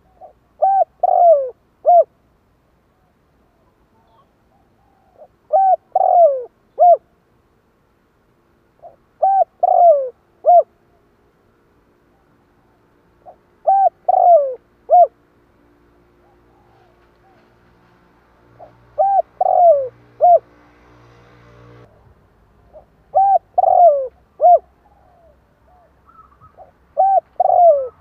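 Spotted dove cooing: seven repeated phrases of three or four notes, one about every four seconds.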